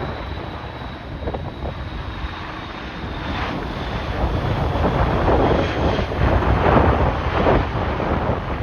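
Strong gusty wind buffeting the microphone over a jet airliner's engines, whose faint high whine drifts slightly lower. The wind gusts grow louder about halfway through.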